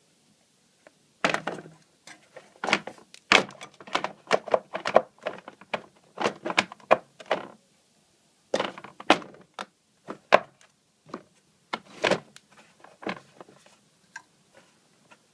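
A run of irregular knocks and clacks of hard parts being handled, in two flurries with a brief pause in the middle, and no motor hum.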